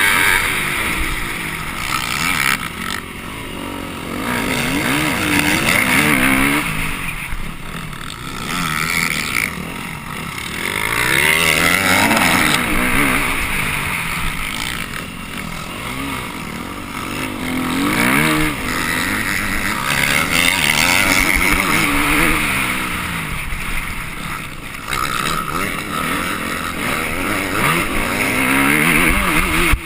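Dirt bike engine heard from onboard, revving up and dropping back again and again as the rider accelerates, shifts and brakes, with a steady rush of wind and noise over it.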